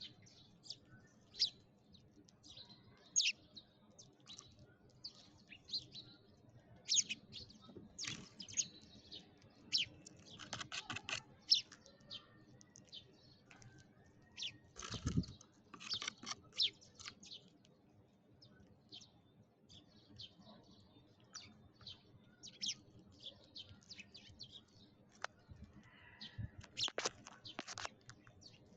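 Sparrows chirping: many short, irregular chirps, with a dull thump about halfway through.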